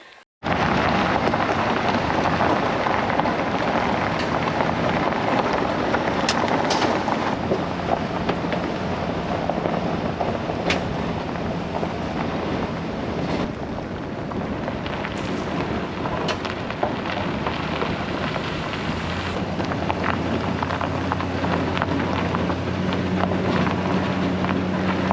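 Silverado 2500HD driving slowly over a rough gravel road: a steady rumble of tyres on gravel, with scattered knocks and rattles. An engine drone rises under it in the second half.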